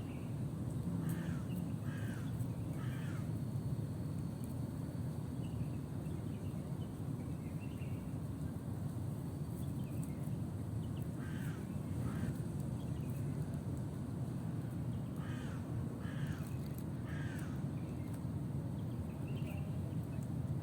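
Crows cawing in short runs of two or three harsh caws, repeated several times with fainter caws between, over a steady low rumble.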